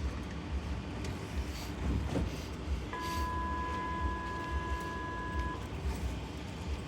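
Interior running noise of a GTZO low-floor tram in motion, a steady low rumble. About three seconds in, a steady electronic beep sounds for about two and a half seconds and cuts off.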